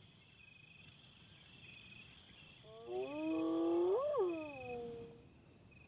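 Spotted hyena pup giving a whooping call that rises in pitch and then falls, beginning about three seconds in, over steady cricket chirping.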